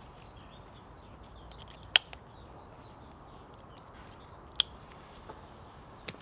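Faint woodland birds chirping over quiet outdoor background, broken by two sharp clicks about two seconds and four and a half seconds in, and a smaller click near the end.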